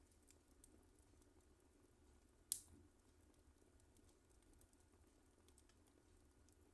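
Wood fire in a fireplace crackling softly, with faint scattered ticks and one sharp loud pop about two and a half seconds in.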